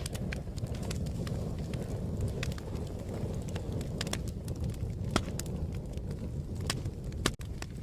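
Fire crackling: a steady low rumble of flames with sharp pops and crackles scattered irregularly throughout. The sound drops out for an instant about seven seconds in.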